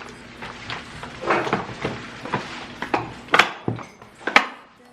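A run of irregular knocks and clatter, like objects being handled and set down, with two sharper, louder knocks about three and a half and four and a half seconds in.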